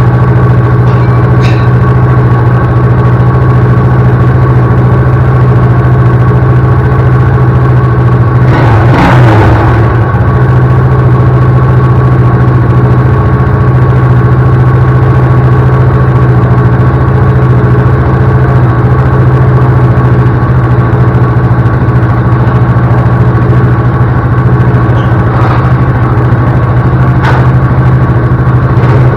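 A 1992 Suzuki QuadRunner LT4WD 250's single-cylinder four-stroke engine idles steadily on its freshly rebuilt carburetor, with a brief noisy disturbance about nine seconds in.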